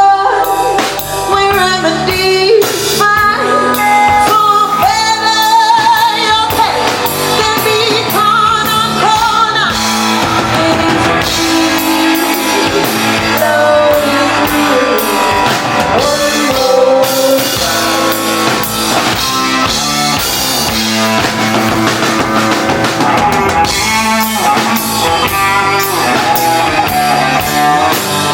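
Live rock band playing loud: drum kit, bass and electric guitars, with a lead melody line that bends in pitch during the first several seconds.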